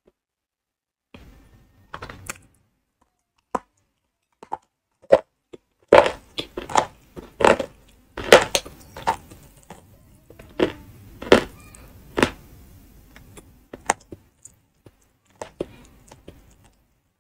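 Close-miked chewing of edible clay chalk (ayilo, calabash chalk): sharp, brittle cracks and crunches as the lumps are bitten and ground between the teeth. The crunches start about a second in, come thickest in the middle and thin out toward the end.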